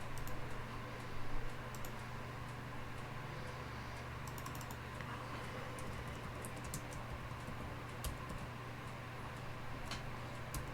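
Typing on a computer keyboard: scattered keystroke clicks with a quick run of them about four seconds in, over a low steady hum.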